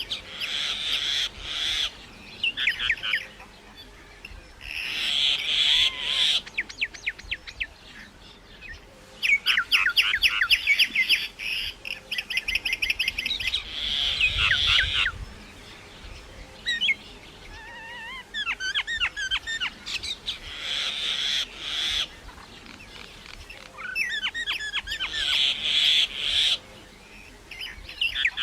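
Birds calling and chirping in repeated bouts, some as fast runs of short sharp notes, with quieter gaps between them.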